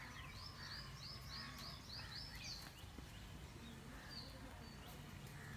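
A small bird calling: a quick run of short, high, rising chirps, about four a second, lasting a couple of seconds, then a single chirp about four seconds in, over a faint low rumble.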